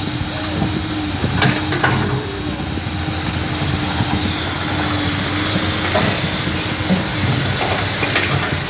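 Heavy vehicle's diesel engine running steadily with a low rumble, with a few short knocks.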